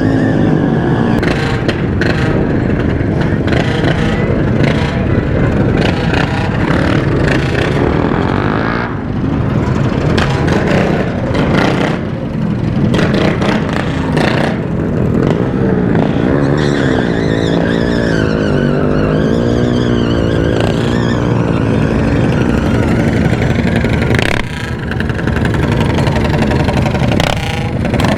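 Small motorcycle engines running and revving during a group street ride, under a steady rush of wind and road noise. About two-thirds of the way through, one engine's pitch rises and falls several times.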